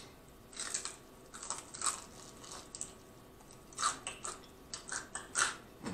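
Close-up crunching and chewing of a crispy fried chicken wing flat: a run of irregular crunches as the fried crust breaks between the teeth.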